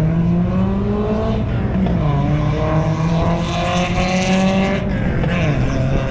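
A car engine running under load, its pitch climbing steadily and then falling back, twice, as if accelerating through the gears.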